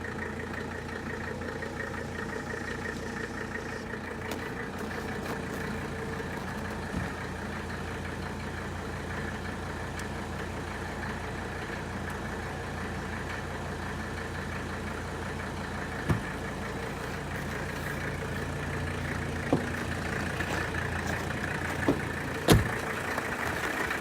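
Mercedes 300D's five-cylinder diesel engine idling steadily, with a few short sharp clicks in the second half.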